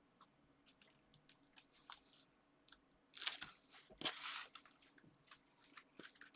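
Card and paper being handled and pressed together while gluing pieces of a card: faint scattered clicks, with two short, louder rustles a little past three and four seconds in.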